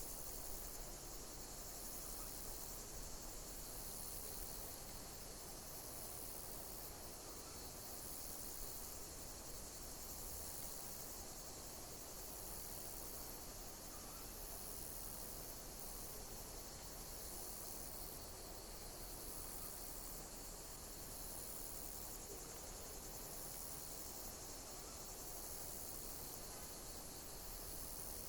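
Insects chirping in a steady high-pitched chorus, with a repeating phrase about every two seconds, over a faint hiss.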